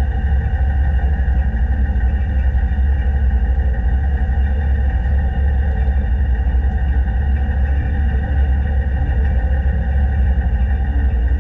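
Steady low rumble of a narrow-gauge locomotive running, heard from a camera mounted on the engine, with a constant hum of fixed tones over it and no change in pace.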